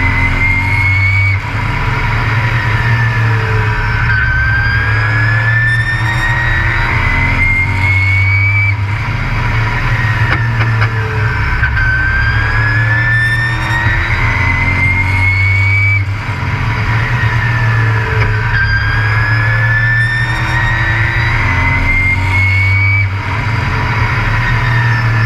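Race truck's engine heard on board at racing speed, with a whine that climbs in pitch for about three seconds and then drops back, over and over about every four seconds: full throttle down each straight, then lifting for the turns.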